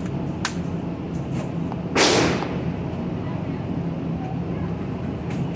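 A single loud gunshot about two seconds in, with a short ringing tail, over a steady low hum.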